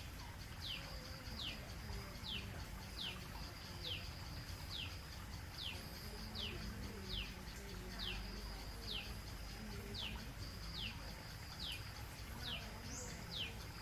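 A bird calling over and over, a short falling whistle about one and a half times a second, over a steady high thin whine and a low even rush of the pond's waterfall.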